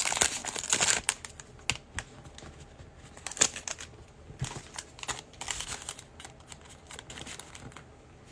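Plastic trading-card pack wrappers crinkling for about a second, then scattered light clicks and taps from handling.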